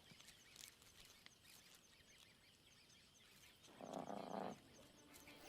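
Faint wild ambience with high chirping repeating steadily, and about four seconds in a short, low lion growl lasting under a second.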